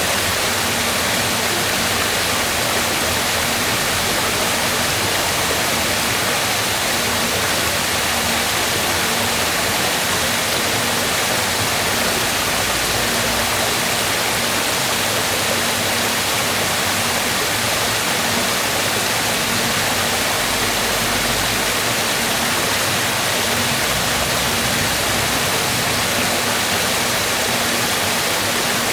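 Waterfall: water rushing down steadily in a loud, even hiss.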